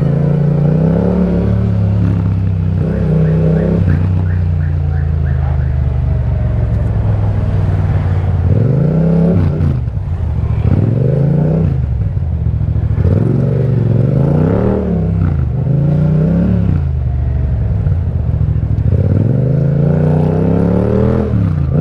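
Yamaha MT-07's 689 cc parallel-twin engine through an Akrapovic exhaust under way, its pitch climbing and falling back several times as the rider accelerates and eases off.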